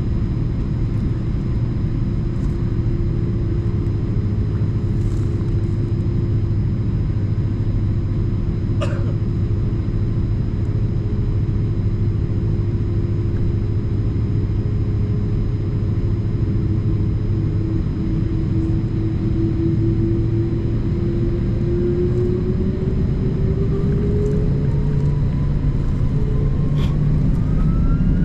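Airbus A330-200 jet engines running with a steady low rumble and a whine, which rises in pitch over the last ten seconds or so as the engines spool up toward takeoff thrust.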